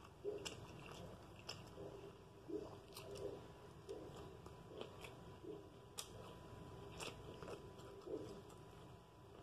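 A person chewing a mouthful of Italian beef sandwich close to the microphone: faint, steady chewing, a chew about every three-quarters of a second, with small wet mouth clicks.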